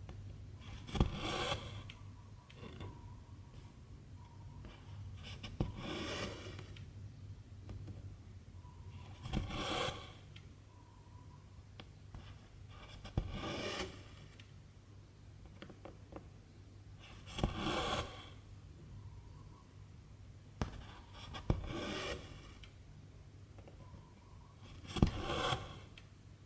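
Cross-stitch needle poking through the fabric, then silk thread pulled through with a short rasping swish. This repeats about every four seconds, seven times over.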